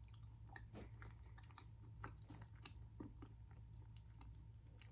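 Faint close-up chewing: scattered soft crunches and wet mouth clicks of someone eating fried street food.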